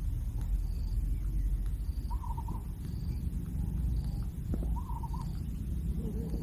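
A bird calling: a short quavering call repeated about every two and a half seconds, with a lower call near the end, over a steady low rumble.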